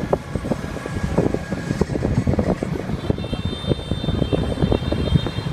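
Motorbike ride through city traffic: an irregular low rumble of engine and road noise. A high steady whine joins for the last couple of seconds.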